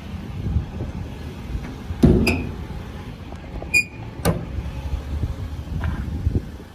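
Metal clanks and knocks from a truck service body, a compartment door or latch being worked: four sharp knocks in the middle, one leaving a short metallic ring, over a low rumble.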